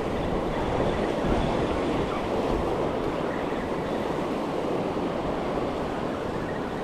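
Ocean surf washing on the shore, a steady rushing noise with a low rumble.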